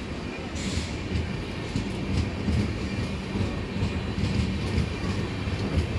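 Red-and-grey LHB passenger coaches of an Indian Railways express rolling past a platform: a steady low rumble of wheels on rail with irregular clicks over the rail joints, and a brief hiss about half a second in.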